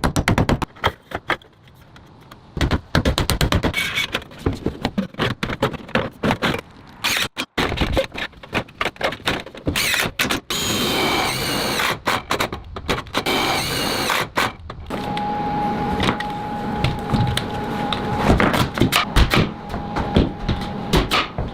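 Building work on a cabin wall, the stage where insulation panels and corrugated metal siding go on: a rapid run of knocks and taps, with a high whine for a few seconds around the middle and a steady tone through the last several seconds.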